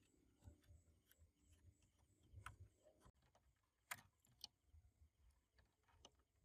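Near silence with faint scattered small clicks and taps, the sharpest two about four seconds in.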